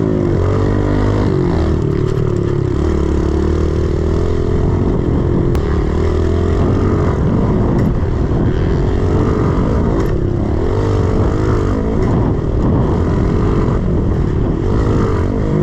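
110cc four-stroke single-cylinder pit bike engine being ridden hard, its pitch rising and falling repeatedly with throttle and gear changes.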